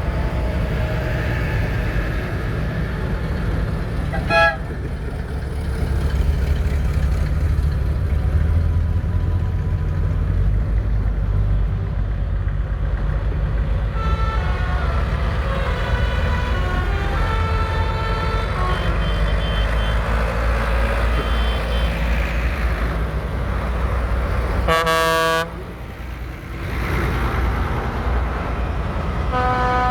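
Diesel tractor engines running as tractors drive past, with horn toots: a brief toot about four seconds in, a longer, louder one near twenty-five seconds, and another just before the end.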